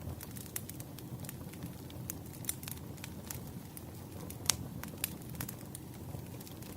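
Burning firewood crackling, with irregular sharp pops over a low steady rumble of the fire; one louder pop about halfway through.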